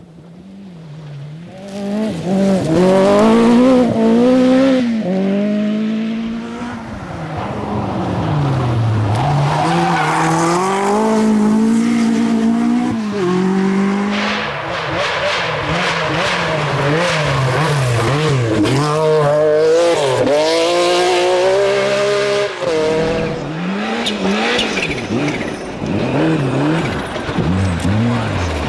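Rally car engine revving hard, its pitch climbing and dropping again and again through gear changes and lifts for corners. It comes in faint and is loud within about two seconds.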